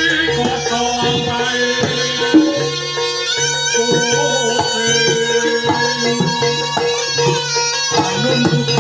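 Javanese barongan accompaniment music: a reedy wind instrument plays a wavering melody over drums and other percussion.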